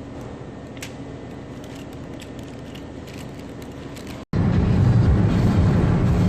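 Steady low hum of a vehicle with a few light clicks. About four seconds in, an abrupt cut leads to a much louder, dense low rumble from riding in the vehicle.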